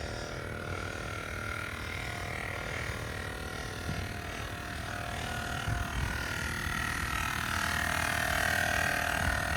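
Air compressor running steadily while inflating a tire: a low drone with a few steady whining tones that get louder over the last few seconds.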